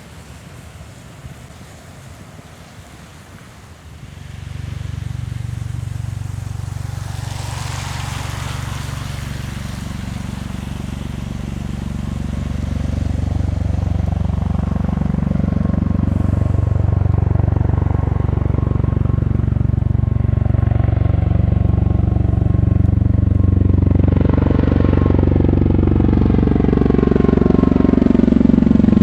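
USAF CV-22B Osprey tiltrotor approaching: the low, pulsing drone of its proprotors starts abruptly about four seconds in and grows steadily louder. Before that there is only faint wind noise.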